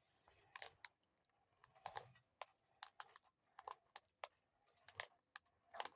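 Faint, irregular clicks and taps, a few a second and uneven in strength, over near silence.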